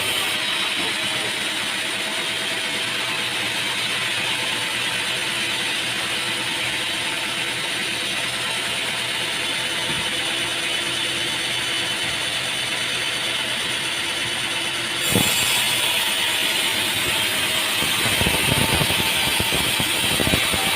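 Sawmill machinery running with a steady mechanical clatter. A sharp knock comes about three-quarters of the way through, and after it the noise sounds brighter.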